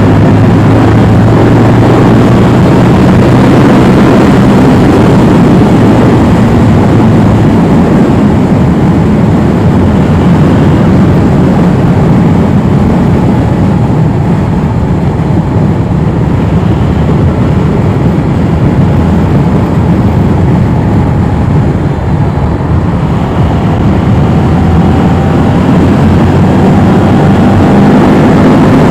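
Yamaha R7 motorcycle riding along at speed: heavy wind rush on the microphone over a steady engine note. The engine tone is clear for the first several seconds, sinks under the wind in the middle, and comes through again near the end.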